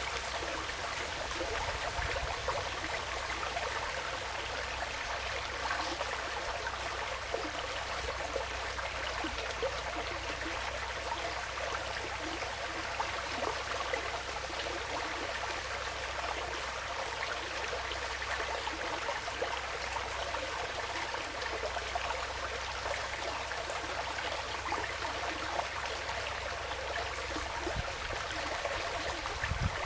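Forest stream flowing steadily, a constant babble of running water.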